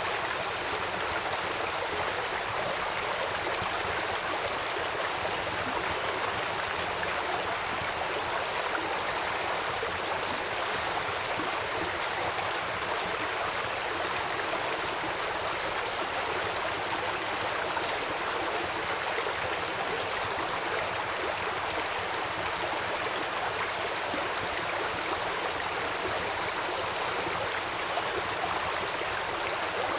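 Steady rush of flowing river water. From about a quarter of the way in until past two-thirds, a high, short chirp repeats at an even pace, about every two-thirds of a second.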